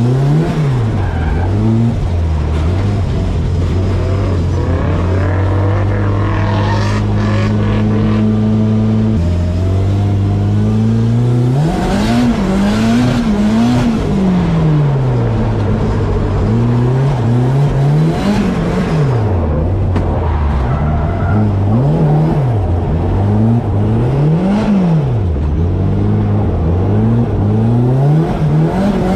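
Nissan Silvia S13's turbocharged SR20DET four-cylinder engine heard from inside the cabin while drifting. The revs hold steady for several seconds a few seconds in, then rise and fall over and over, every second or two, as the throttle is worked.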